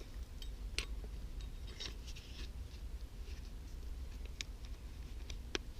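Faint, irregular scrapes and light clicks of a Fallkniven DC4 diamond-and-ceramic pocket whetstone worked along the thin edge of a Cold Steel Rifleman's Hawk tomahawk, a few short strokes spread out with pauses between them.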